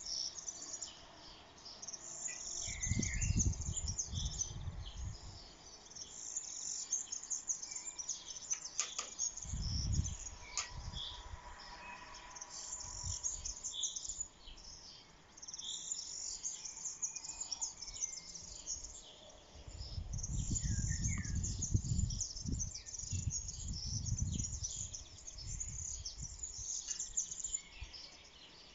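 Small birds chirping and singing, many short calls overlapping throughout. Low rumbles of wind on the microphone come and go a few times, strongest about two-thirds of the way through.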